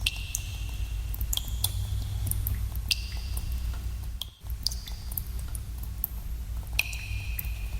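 Water drops falling irregularly into a pool in a cave, each a short echoing plink with a brief ringing pitch, over a steady low rumble. The rumble drops out for a moment about halfway through.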